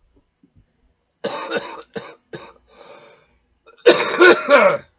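A man coughing: a string of short, harsh coughs, then the loudest coughing burst about four seconds in. It is a smoker's coughing fit after hits of cannabis.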